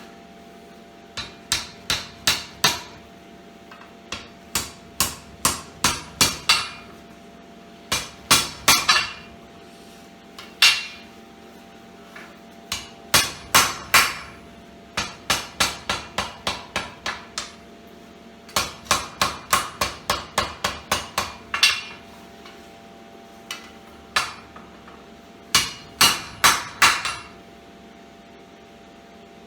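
Blacksmith's hand hammer striking hot square steel bar on an anvil while forging a poker, in runs of about three to ten quick blows, roughly three a second, with short pauses between runs. A faint steady hum runs underneath.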